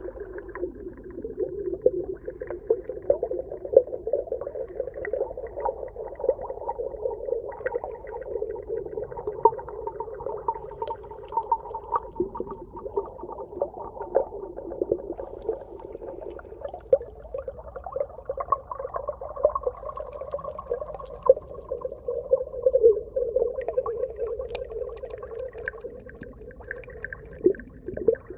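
Underwater ambience: a dense, continuous crackle of short clicks and pops sitting in a low-middle band, with a fainter higher band coming and going.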